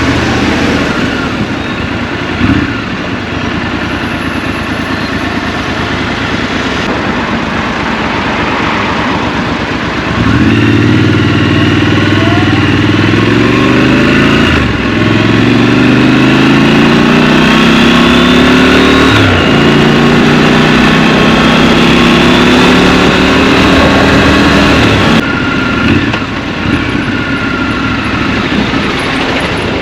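Scrambler motorcycle engine ticking over at low speed, then pulling away hard about a third of the way in: the pitch climbs and drops back at two gear changes, holds at a steady cruise, and falls away when the throttle closes near the end.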